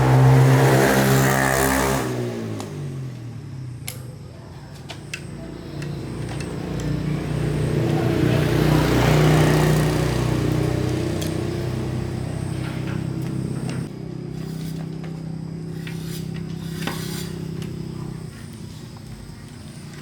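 An engine running. Its pitch drops over the first couple of seconds, it swells again midway, then it runs steadily, with scattered sharp metallic clicks.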